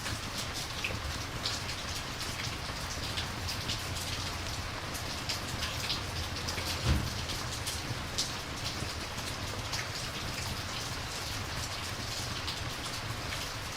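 Rain and campfire ambience: steady rain hiss with scattered sharp crackles, and a single low thump about seven seconds in.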